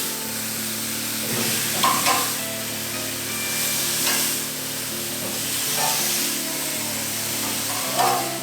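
Chicken sizzling on a braai grill over a wood fire, a steady hiss of fat and juices, under background music with held notes and a soft accent about every two seconds.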